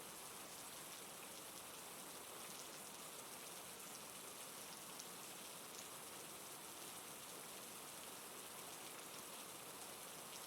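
Steady, soft rain falling on a surface, an even hiss with faint scattered drop ticks.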